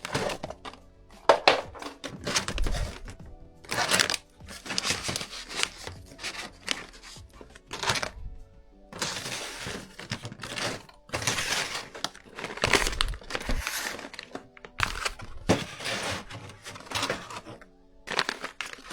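Plastic food packets and bags rustling and crinkling in irregular bursts as they are handled and packed, with occasional light knocks, over quiet background music.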